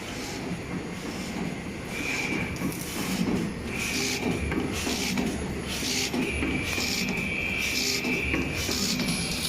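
Hexagonal wire mesh machine running, with a steady low rumble and scratchy rasping strokes about once a second as it twists the wire. A thin high squeal comes and goes and is held through the last few seconds.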